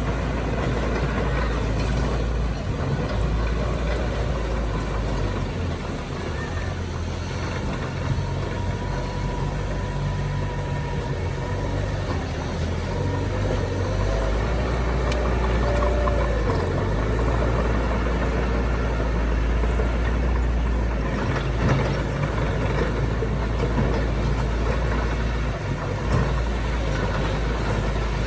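Heavy diesel engines of earthmoving machinery, a bulldozer and dump trucks, running steadily with a deep low rumble.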